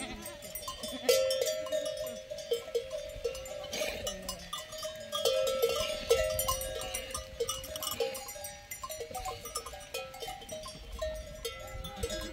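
Bells on grazing livestock clanking and ringing irregularly, many overlapping, as the animals move.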